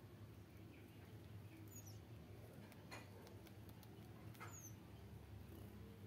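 Small aviary birds giving faint, very high chirps that fall in pitch, twice, with a few soft clicks over a low steady hum.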